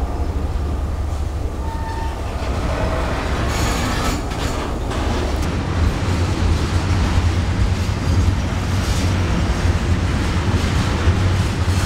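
A freight train of boxcars and tank cars rolls past at close range with a steady, heavy low rumble of wheels on the rails. There is a brief wheel squeal about two seconds in, and a spell of sharper wheel clatter a little later.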